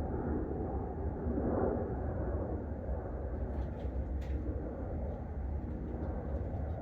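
Distant thunder rumbling low and steadily, swelling about a second and a half in, with a few faint ticks near the middle.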